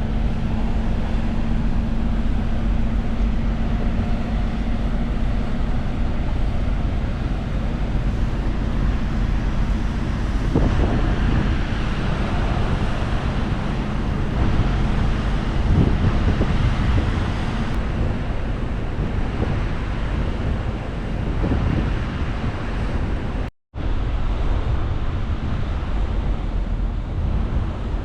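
Wind rushing over the microphone on a ferry's open deck, over the steady low drone of the ship and the wash of the sea. The sound cuts out for a split second about three-quarters of the way through.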